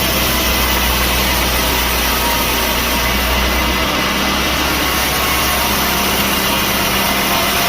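Sawmill machinery running steadily, a loud even engine-like hum with no cutting bursts or impacts.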